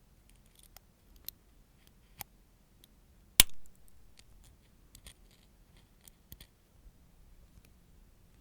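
Scattered light clicks and snips of small metal nail-care tools, with one sharp, much louder snip about three and a half seconds in.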